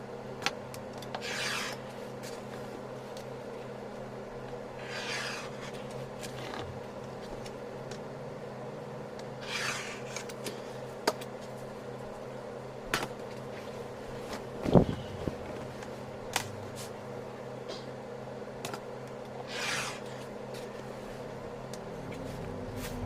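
Hand work on a craft piece: a few short rubbing strokes several seconds apart, scattered light clicks and one louder knock about fifteen seconds in, over a steady electrical hum.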